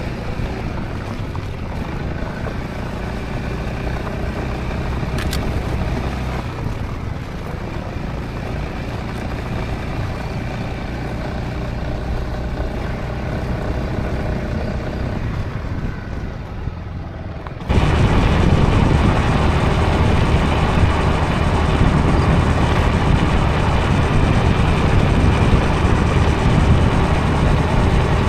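Honda ADV350 scooter's single-cylinder engine running steadily while riding, with wind and road noise. About eighteen seconds in, the sound suddenly jumps louder and fuller.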